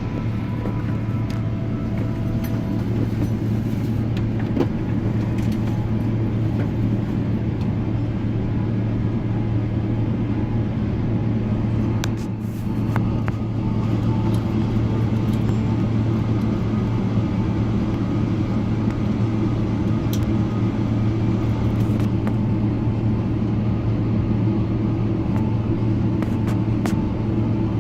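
Steady rumble and hum inside the cabin of a Boeing 777-300ER taxiing after landing, with a brief dip about twelve seconds in.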